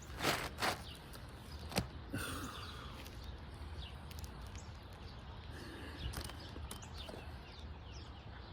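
Asphalt roof shingles being handled: a few short scrapes and knocks in the first two seconds, then steady outdoor background with faint bird chirps.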